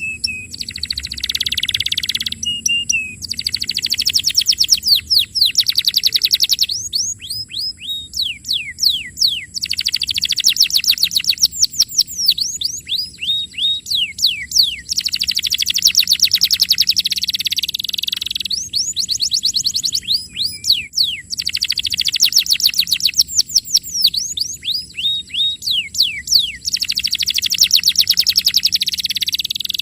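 Domestic canary singing: fast trills of rapidly repeated high notes and quick falling sweeps, in phrases a few seconds long with short pauses between.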